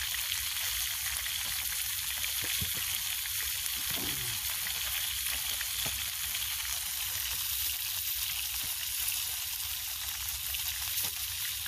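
Bacon-wrapped hamburgers sizzling steadily in a cast iron pan over a campfire, an even hiss with scattered small pops of grease.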